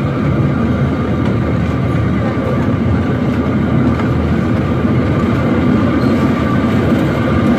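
Steady rumble of a small amusement-park train rolling along its track, heard from an open passenger car, with a faint steady whine over it.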